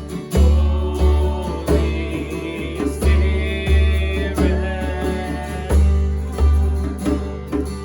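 Worship band music: guitar and a steady bass line playing a slow song, with a higher melodic line in the middle and no sung words.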